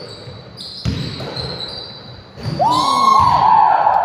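Basketball bouncing on a hardwood gym floor, then about two and a half seconds in a loud, long, high squeal that starts with a quick rise in pitch, typical of sneaker soles skidding on the court.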